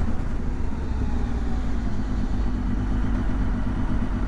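Motorcycle engine running steadily with a low rumble and an even hum, heard while riding.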